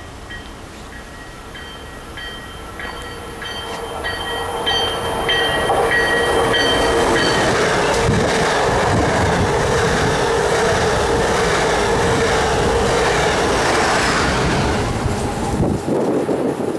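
A bell rings at a steady pace, a little under twice a second, as a train approaches. The train then passes close by with loud, continuous rumble and wheel noise for several seconds, and the sound falls away near the end.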